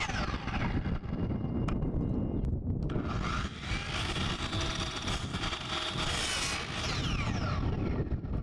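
Electric saw cutting 10-foot boards down to length. The blade's whine falls as it spins down just after the start, then a second cut runs for about four seconds and spins down again near the end.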